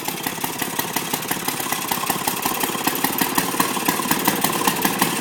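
Mid-1930s Maytag washing-machine engine, a small two-stroke, running steadily with a rapid, even firing beat as it drives the riding mower along.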